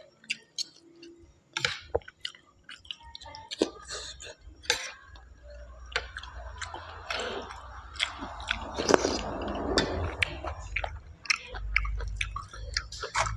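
Close-miked chewing and biting of mushrooms: a run of sharp mouth clicks and smacks, thickening into a denser stretch of chewing about halfway through.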